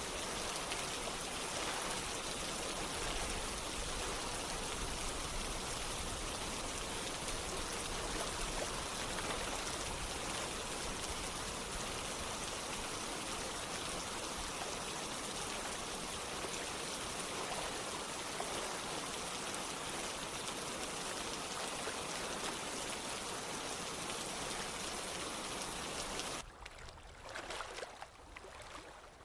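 Steady rain and running water making an even, unbroken hiss. About three seconds before the end it drops abruptly to a quieter, thinner patter.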